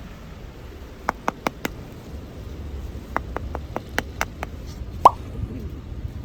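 A run of short, sharp clicks or taps. Four come quickly together, then about seven more after a pause, then one louder click with a brief pitched chirp, all over a steady low rumble.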